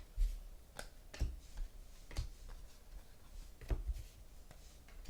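Trading cards being handled on a table: a few scattered light clicks and taps, some with a soft low thump, as cards are flipped through and set down.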